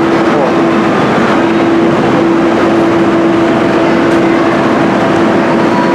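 Loud, steady mechanical drone with one constant hum note, typical of idling rail equipment at a display.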